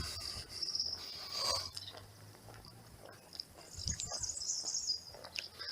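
Outdoor ambience with high-pitched chirping, strongest about four seconds in, and a few faint clicks.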